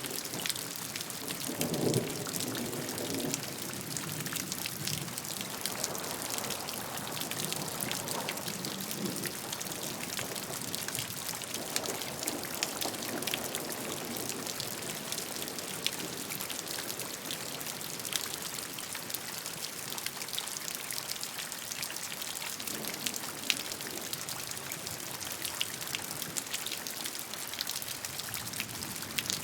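Steady rain falling, with individual drops heard as fine ticks over an even hiss. The sound swells briefly now and then, most strongly about two seconds in.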